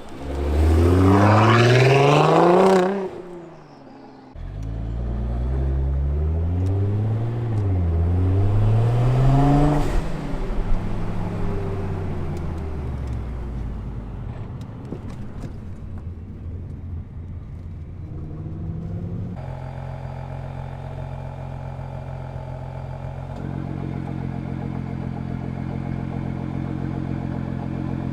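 Nissan GT-R R35's twin-turbo V6 through a valved stainless ArmyTrix exhaust under hard acceleration, the revs climbing steeply, then cutting off about three seconds in. Two more rising pulls follow, with a few sharp cracks around ten seconds in. The revs then drop away, and from about two-thirds of the way through the engine holds a steady, even note.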